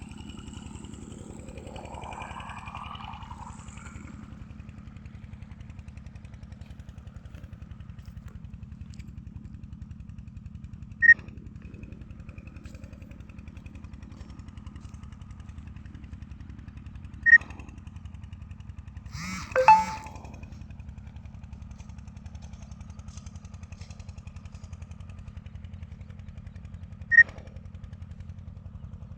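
A small engine idling steadily with a fast, even pulse. Four short, sharp, high-pitched sounds cut through it, each louder than the engine.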